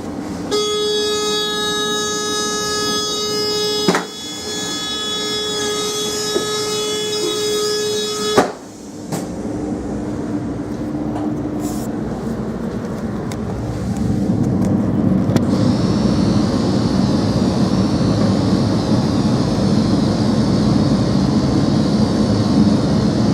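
Alstom Coradia LINT 41 diesel railcar (SNCB AM80) heard from the train. A steady high tone with overtones runs for about eight seconds, broken by clicks twice. Then the diesel running noise takes over and grows louder about fourteen seconds in as the engine takes up power.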